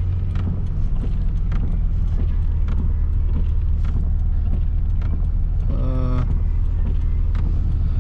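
Nissan 300ZX's engine running steadily under way, a constant low drone, with faint regular ticks a little under two a second and a brief pitched sound about six seconds in.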